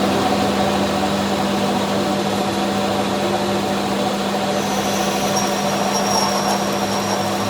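A motor-driven workshop machine running steadily with a constant hum and a noisy mechanical whirr; a thin high whine joins about halfway through.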